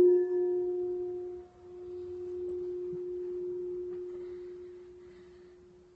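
Singing bowl ringing with one steady low hum and faint higher overtones. It fades, swells again about two seconds in, then slowly dies away.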